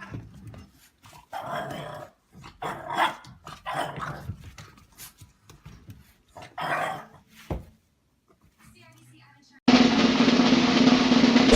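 A dog barking and vocalising in a run of short separate calls, with people's voices. A loud steady noise with a low hum starts near the end.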